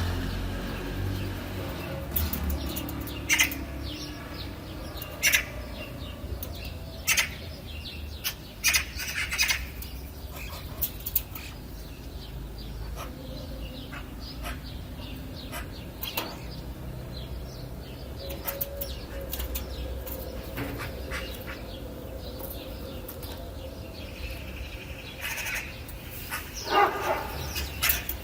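Wild birds calling: short, scattered chirps every second or two, with a busier cluster near the end, over a steady low rumble.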